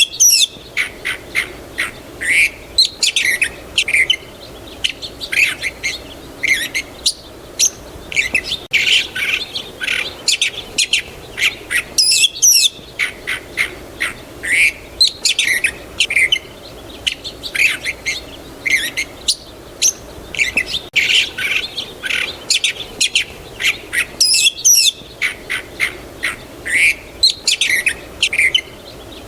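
Many small songbirds chirping and singing together in a continuous chorus of quick, high chirps and short sweeping notes, with a faint steady background hum.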